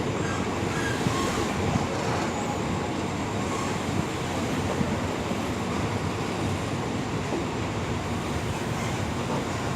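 Passenger train at a station: the steady rumble of the train and its wheels on the track, with a few light knocks.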